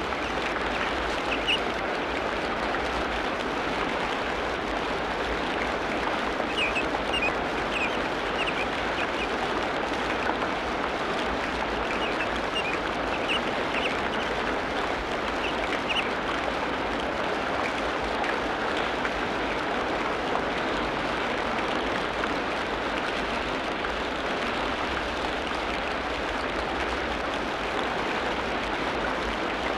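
Tropical rainforest ambience: a steady, dense hiss with short, high bird chirps in scattered clusters during the first half.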